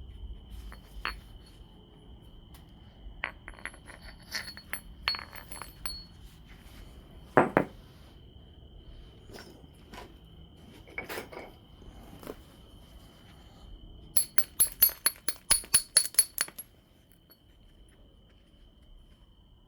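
Obsidian being knapped: scattered glassy clicks and taps of stone and tools, one heavier strike about seven seconds in, and a quick run of about a dozen light taps, roughly five a second, near the end.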